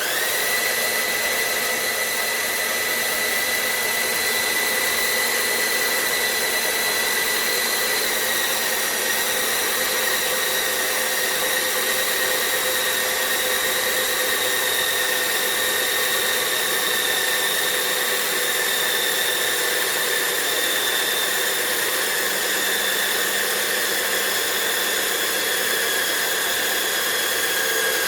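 CaDA M electric motor running on a test bench: a steady high-pitched whine with a hiss. It starts abruptly and slowly drops in pitch as the motor slows a little.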